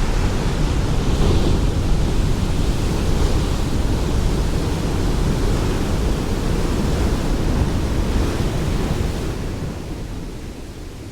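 Ocean surf: a continuous deep wash of waves breaking and running up the shore, with a few brief surges of hiss as waves break. The sound fades down over the last couple of seconds.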